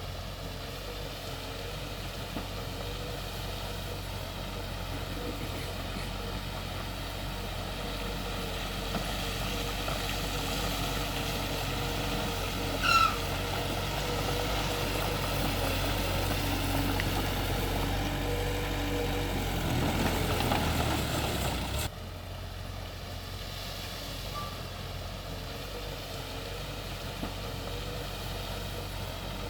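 Heavy diesel engine of earthmoving machinery running steadily and working harder through the middle, with one brief high squeal about halfway through. The engine sound drops off abruptly about two-thirds of the way in and settles to a quieter steady hum.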